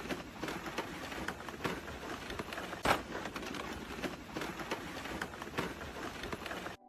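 Shards of shore ice crackling and clinking against each other in a dense patter of small clicks, with one sharper crack about three seconds in.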